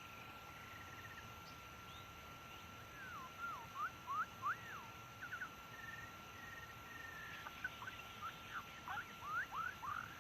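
White-rumped shama singing: a run of clear whistled notes sweeping up and down, starting about three seconds in and coming faster near the end, over a steady thin high tone.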